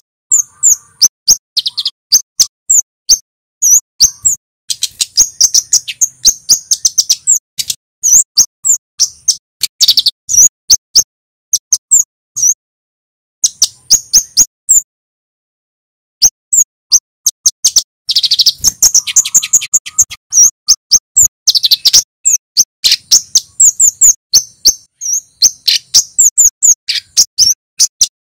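A male kemade flowerpecker gives rapid strings of sharp, very high 'cit' chirps, many per second, with fast trills between them. The calls stop for about a second and a half near the middle, then resume.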